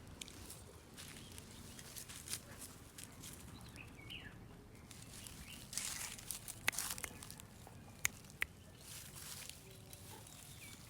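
Rustling and scraping with a few sharp clicks over a faint outdoor background, and a bird chirping briefly about four seconds in.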